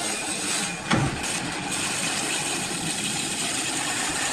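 A steady, motor-like running noise with a strong hiss, broken by one short knock about a second in.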